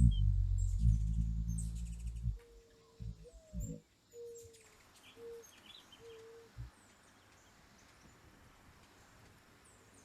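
Hummingbird wings humming loudly as a bird hovers close, cutting off about two seconds in. Then a few brief wing buzzes as birds dart past, with faint high chirps over a light hiss of rain.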